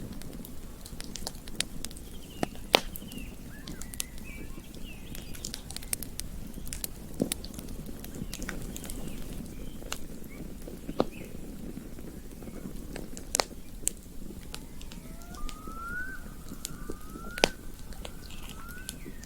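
Campfire burning with a low steady rumble and scattered sharp crackles and pops, a few of them loud. Faint high whistled calls sound over it, with a run of short rising calls near the end.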